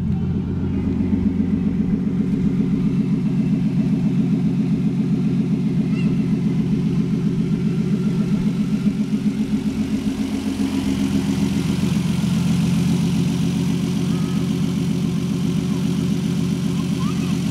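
1994 Toyota Supra's inline-six idling through its dual exhaust, a steady, even rumble.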